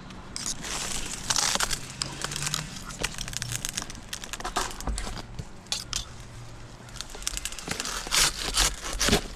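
Dry queen palm fronds crackling and rustling in irregular scratchy bursts as they are cut and handled.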